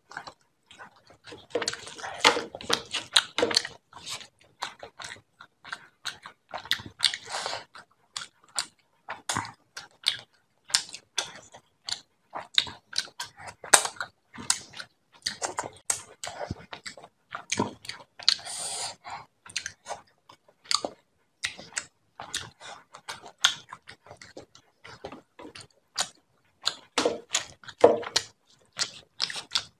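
Close-miked wet chewing and mouth smacking of a person eating rice and fish curry by hand, with the squish of fingers working curry into the rice: many quick, irregular smacks and clicks.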